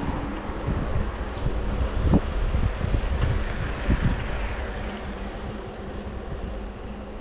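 Wind rumble on the microphone and road noise from a bike in motion, with a few irregular knocks and rattles from bumps.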